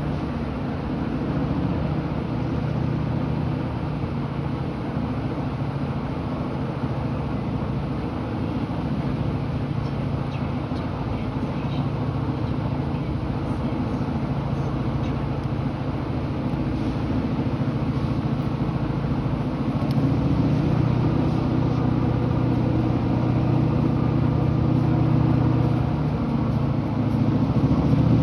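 Diesel freight locomotive engine running with a steady low rumble, getting gradually louder toward the end.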